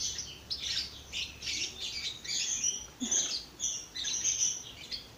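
Many birds chirping, a steady stream of short, overlapping high-pitched calls.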